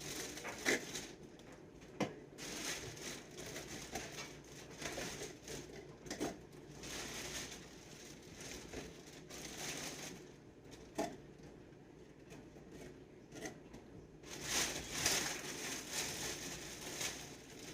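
Household handling noises: plastic packaging crinkling and rustling, with scattered light knocks and clicks as items are moved and put away.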